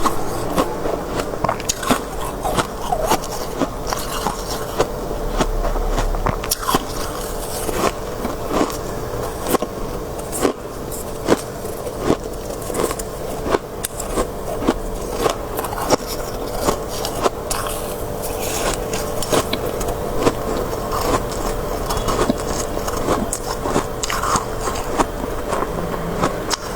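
Biting and crunching mouthfuls of crisp freezer frost (shaved ice): many sharp, irregular crunches in quick succession, with a steady hum underneath.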